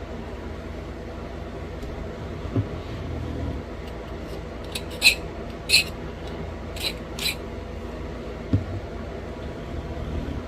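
Pressure flaking of a small stone point: four short, sharp clicks in about two seconds as the edge is worked. Two dull knocks of handling come before and after, over a steady fan hum.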